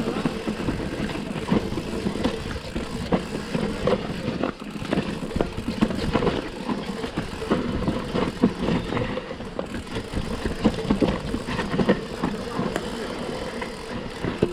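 Mountain bike riding down a rough dirt trail: steady tyre rumble with frequent rattles and knocks from the chain and frame over roots and rocks.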